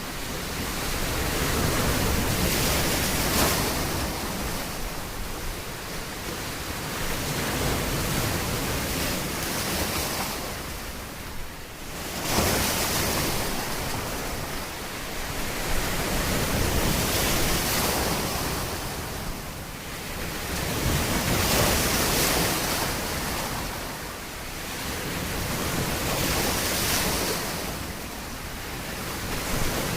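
Ocean waves breaking on a shore: a steady surf hiss that swells and ebbs every four to five seconds.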